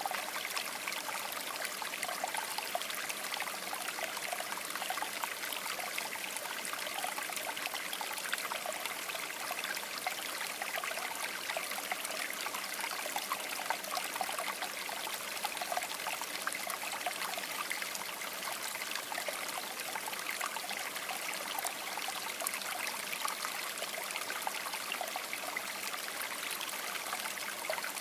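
River water babbling steadily over stones, a continuous splashing rush with fine trickling detail.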